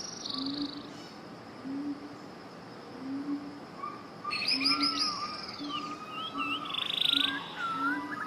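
Several songbirds singing whistled phrases, sweeping notes and a trill, over a short low call that repeats about once a second. A steady background hiss runs under them.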